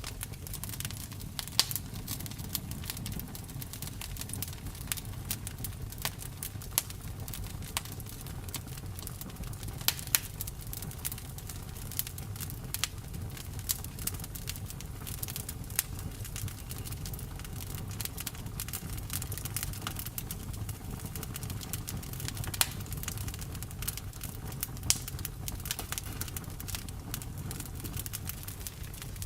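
Campfire crackling: wood burning with constant irregular snaps and a few louder pops over a low steady rumble of the flames.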